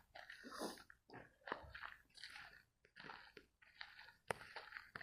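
Footsteps crunching on the trail surface at a walking pace, faint, one soft crunch about every half second to second.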